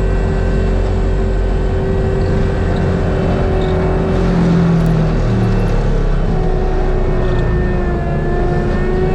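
ASV RT-120F track loader running a Fecon Bullhog forestry mulcher head at working speed: a loud, steady engine and drum whine, its pitch sagging slightly about eight seconds in.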